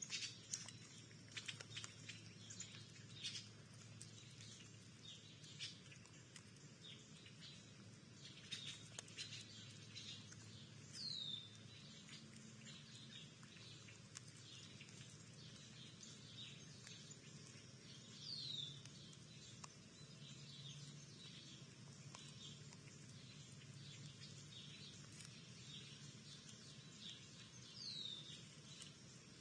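Faint birds chirping: many short high chirps and, three times, a single down-slurred whistle.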